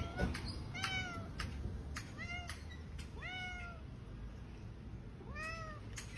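A cat meowing: four short, high meows, each rising and then falling in pitch, about a second or more apart.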